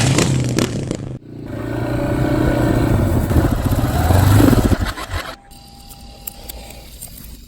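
Motorcycle engine running and building in loudness for a few seconds, then cutting off abruptly about five seconds in.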